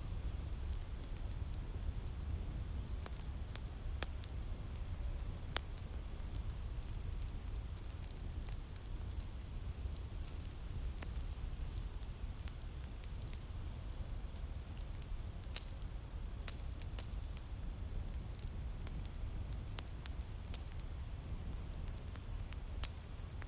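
Crackling fire with irregular sharp pops and snaps, over a steady low rumble of winter wind.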